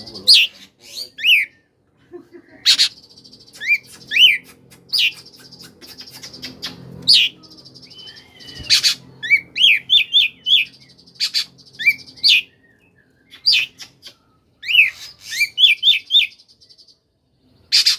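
Oriental magpie-robin (kacer) singing in the fast 'koslet' style: many short, sharp whistled notes sliding up and down, mixed with long buzzing, rattling trills, phrase after phrase with brief pauses. A faint low hum runs underneath.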